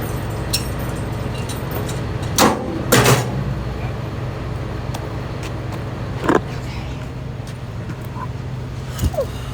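Semi truck's diesel engine idling steadily, with a few sharp knocks about two and a half, three, six and nine seconds in.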